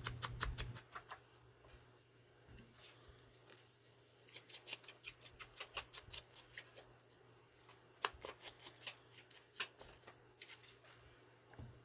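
Ink pad or blending tool dabbed and rubbed along the edges of paper, faintly, in bursts of quick strokes, several a second, with pauses between them.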